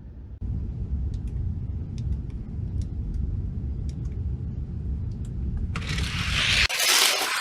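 Die-cast toy cars racing down a track: a steady low rolling rumble with a few light clicks, then a loud rushing scrape from about six seconds in.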